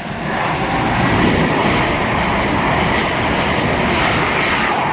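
Two coupled Class 170 Turbostar diesel multiple units passing through the station at speed without stopping: a loud, steady rush of engine and wheel noise that builds in the first second and eases slightly near the end.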